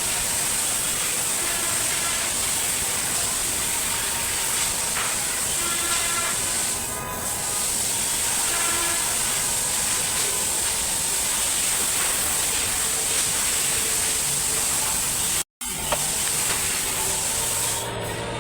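A steady hiss that breaks off into silence for a split second near the end.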